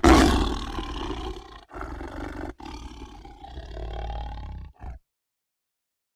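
Tiger roaring: one loud roar at the start, then quieter, rougher calls in three or four short bouts split by abrupt gaps, cutting off sharply about five seconds in.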